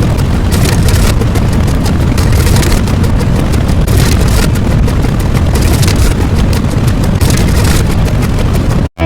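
A loud, steady noise, heaviest in the low end, that cuts out abruptly just before the end.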